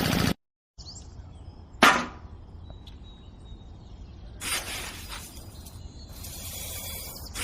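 A small motor running cuts off abruptly. After a short pause comes one sharp clatter about two seconds in, then spells of hissing noise.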